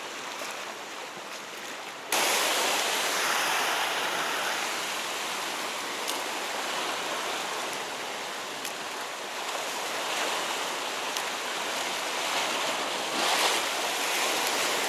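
Sea waves washing against a rocky shore as a steady rushing noise, which jumps abruptly louder about two seconds in.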